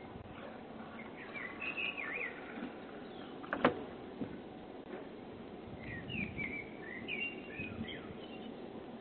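Small birds chirping in short twittering phrases, twice, with a single sharp click a few seconds in, heard through a doorbell camera's thin-sounding microphone.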